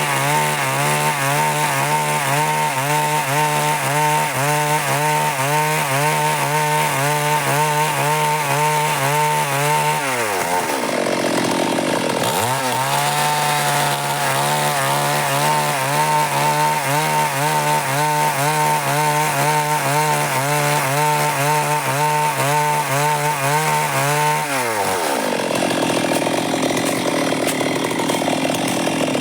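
Stihl MS 382 two-stroke chainsaw running at high revs, cutting wood. About ten seconds in and again near the end, the engine speed drops away and then climbs back up.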